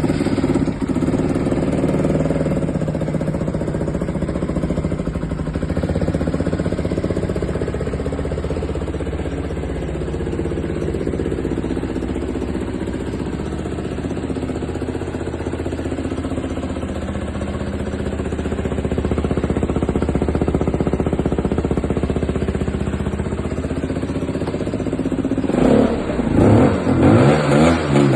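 Lexmoto LXS 125 motorcycle's single-cylinder 125 cc engine idling steadily, then revved several times in quick succession near the end.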